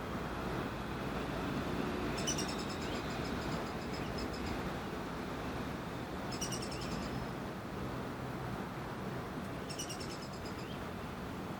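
Fledgling downy woodpecker calling: three short bouts of rapid, high-pitched notes, a few seconds apart.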